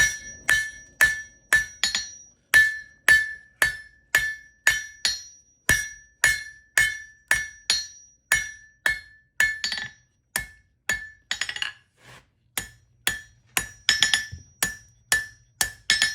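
Blacksmith's hammer striking hot steel stock on the horn of an anvil, about two blows a second, each with a bright metallic ring as the leaf's stem is drawn out and rounded. Near the end a few blows come in quick doubles.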